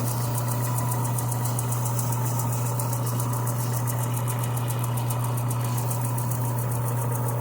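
A steady low motor hum runs throughout, with a fast, even flutter in the hiss above it.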